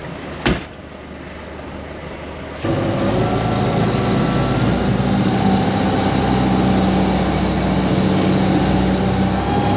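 Wind and water noise with a single knock about half a second in; from about three seconds in, a small boat's engine runs steadily and louder.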